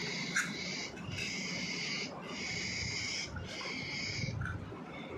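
Parrot chicks giving raspy, hissing food-begging calls during hand-feeding: four calls of about a second each with short gaps between.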